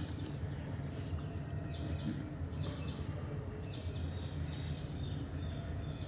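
Short high bird chirps, about one a second, over a low steady background hum.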